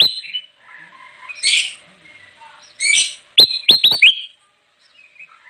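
Kutilang emas bulbul singing: a loud call at the start, two harsh chirps, then a quick run of four sharp falling whistled notes, over softer chatter.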